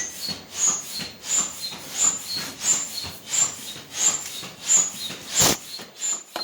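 Air mattress being pumped up by hand, in steady strokes about one and a half a second, each stroke a rush of air with a short whistle. One sharp knock sounds about five and a half seconds in.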